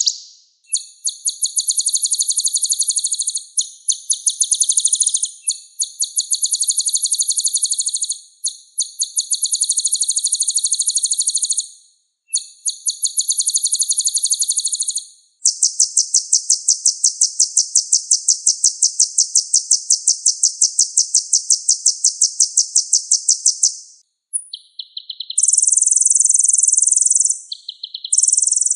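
Kolibri ninja, a small sunbird, singing a high-pitched rapid trill. It comes in phrases of about two to four seconds with short breaks, then one long unbroken trill of about eight seconds, then shorter bursts near the end.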